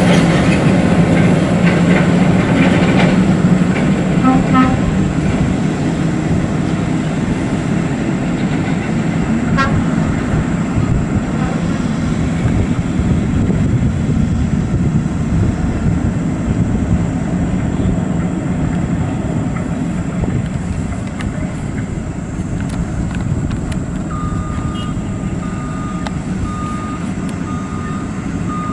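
Heavy truck's diesel engine running with a steady low rumble, with a couple of short horn-like toots early on. About three quarters of the way through, a reversing alarm starts beeping at an even pace.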